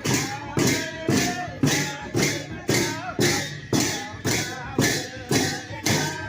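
Sakela dance music: a dhol drum and jhyamta cymbals struck together in a steady beat about twice a second, with voices singing over it.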